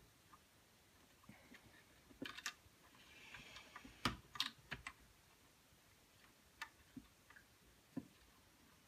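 Scattered small clicks and taps of metal parts being handled while a chainsaw's carburetor and intake stack are fitted, the loudest few about four seconds in, with a brief soft hiss just before them.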